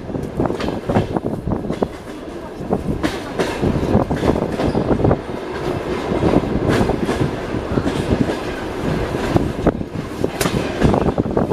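Passenger train carriage running on the rails, heard from inside: a steady rumble with wheels clattering in irregular clicks over the track.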